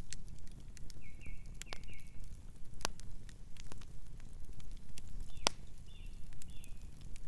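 Wood fire crackling steadily with sharp pops, the loudest about three seconds in and again near five and a half seconds. A bird chirps twice in short runs of high notes, about a second in and again near the end.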